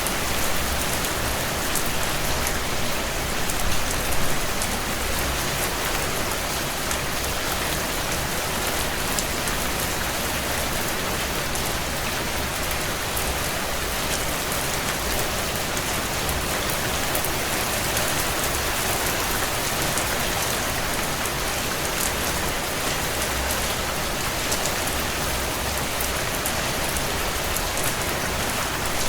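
Heavy rain falling steadily on a tin roof, a dense hiss scattered with many sharp drop hits, briefly louder about four seconds in.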